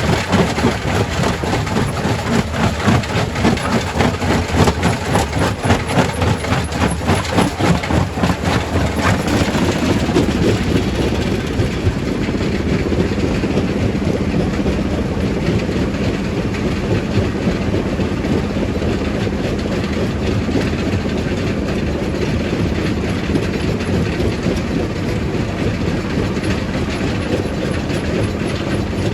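Primary rock crusher crushing stone: rapid clattering and knocking of rock in the crusher, which about a third of the way in gives way to a steadier grinding noise over a low steady hum.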